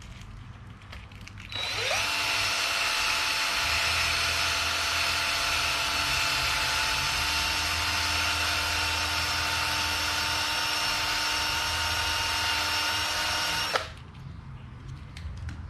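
Electric drill spinning a fan motor's shaft while the shaft is polished clean with a scouring pad. The drill runs up quickly, holds a steady whine for about twelve seconds, then stops suddenly.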